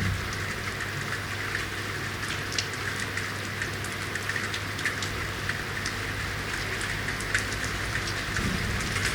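Steady rain falling on hard urban surfaces, with many separate sharp drop ticks. A low rumble builds near the end.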